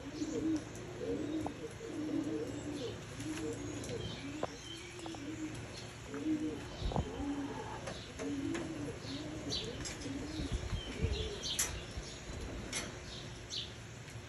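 Tippler pigeons cooing over and over, one short rising-and-falling coo after another, with higher chirps from other small birds mixed in toward the end and a couple of low thumps.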